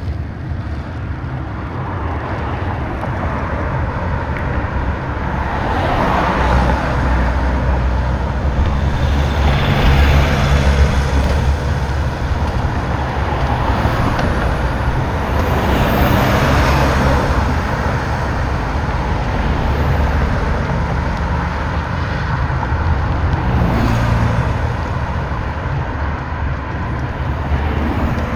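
Continuous low rumble and rattling noise of a bicycle riding over a rough road, picked up through the camera mount, swelling louder a few times. The rider puts the rattle down to the vibrating armrests or the DJI camera mount, and is not sure which.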